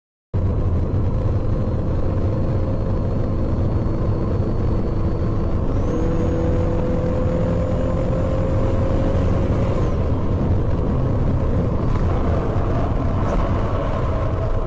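Steady low rumble of a car on the move, heard from a dashcam, with a faint drone that steps up slightly in pitch about six seconds in.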